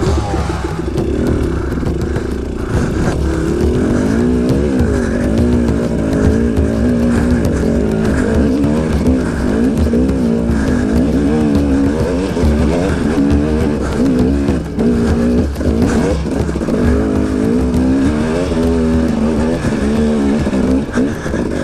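Two-stroke dirt bike engine running on the trail, its pitch rising and falling repeatedly as the throttle is opened and closed.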